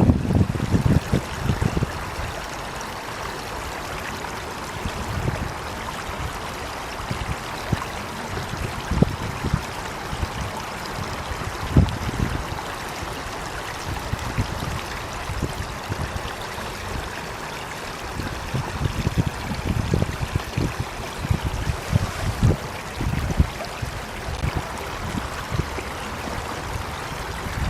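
Water flowing in a stream, a steady rushing, with irregular low rumbling gusts of wind on the microphone, heavier near the start and again in the second half.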